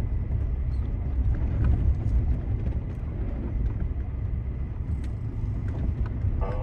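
4x4 vehicle crawling slowly over a rough trail toward a big water crossing, giving a steady low engine and road rumble.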